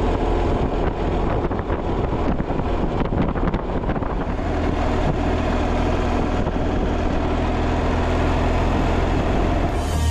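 BMW motorcycle engine running steadily while riding, with wind noise over the microphone.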